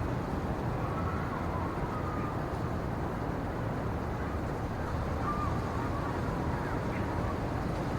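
Steady low rushing outdoor ambience, with a few faint short chirps above it.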